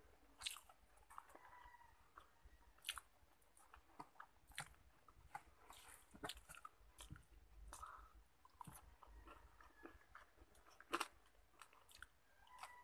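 A person chewing crunchy fried food close to the microphone: irregular crunches and mouth clicks, with a few louder crunches, the loudest about eleven seconds in.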